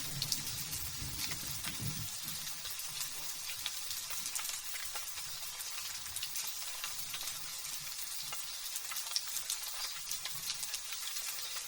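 Light drizzle falling, a steady hiss thick with the small crackling ticks of drops. A faint low rumble sits under it for the first two seconds.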